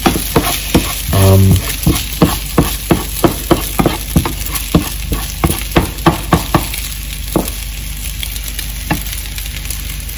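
Rice sizzling as it fries in a non-stick pan, stirred and scraped with a plastic spoon. The spoon knocks and scrapes against the pan about two or three times a second for the first six seconds or so, then only now and then over the steady sizzle.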